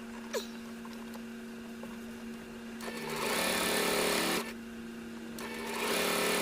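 Electric sewing machine stitching in two runs of about a second and a half each, starting about three seconds in, with a steady low hum underneath and a brief click near the start.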